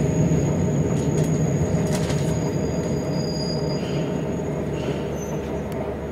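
Train rumbling on the rails as it slows into a station, heard from inside the car, growing gradually quieter. A faint high squeal sounds over the rumble and stops about three and a half seconds in.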